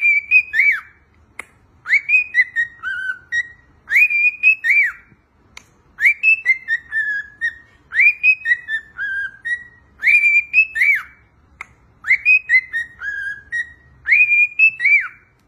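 Cockatiel whistling a short tune over and over: a rising swoop and a couple of arched notes, then a falling run of notes, repeated about every two seconds.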